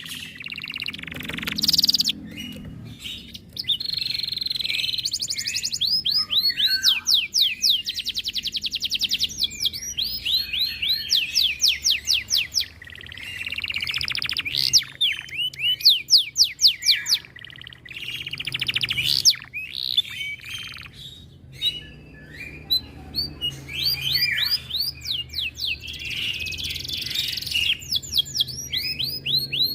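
Domestic canary singing a long, continuous song: trill after trill, each a fast run of repeated high falling notes, with a few brief pauses.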